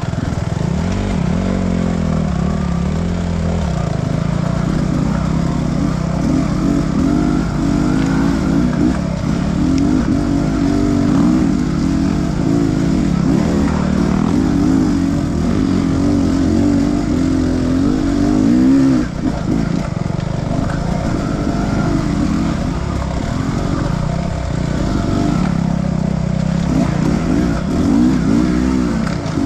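Enduro motorcycle engine running under load while ridden, its revs rising and falling continually, with a brief drop about two-thirds of the way through.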